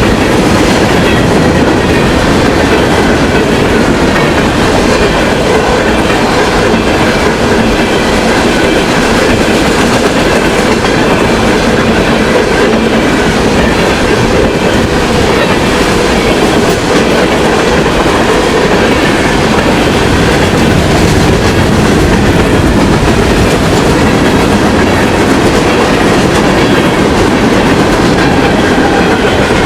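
Freight train rolling past, its wheels clattering steadily over the rail joints, loud and unbroken throughout.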